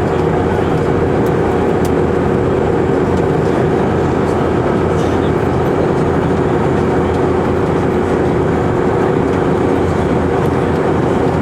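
Steady cabin noise inside an Airbus A319, its engines and airflow running with a constant hum.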